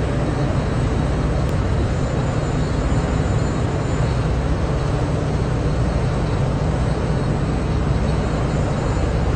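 Heavy vehicle running steadily: a deep, unbroken engine rumble with road noise.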